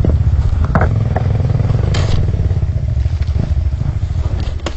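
Trail motorcycle engine running at low revs over slippery mud, with a few clattering knocks from the bike over the rough ground.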